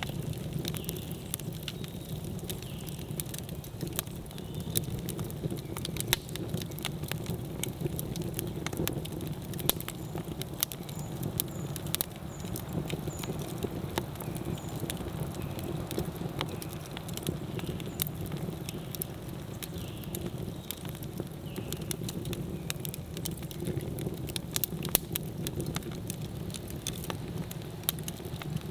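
Wood campfire burning: a steady low roar of flames under irregular, sharp crackles and pops.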